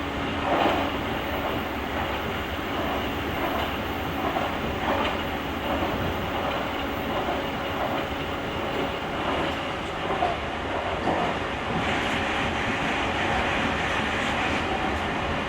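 Series 883 electric limited express running at speed, heard from the vestibule deck: a steady rumble of wheels on rail with scattered knocks and clatter. A brighter, hissier noise comes in about twelve seconds in and holds.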